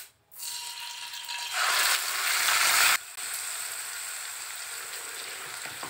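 Ground onion paste tipped into hot oil in a kadhai, sizzling hard as it lands and then settling to a steady frying hiss about three seconds in, stirred with a wooden spatula.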